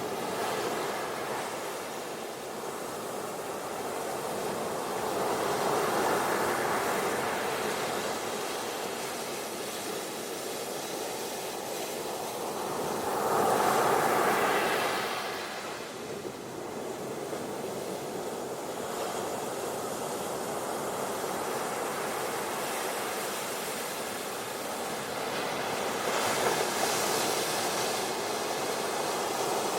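Ocean waves washing onto a beach: a steady hiss of surf that swells up three times as waves come in, the loudest about halfway through.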